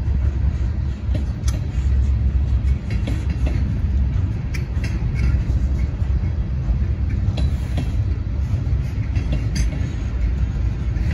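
Norfolk Southern mixed freight train's boxcars rolling past at close range: a steady low rumble of steel wheels on rail, with scattered sharp clicks.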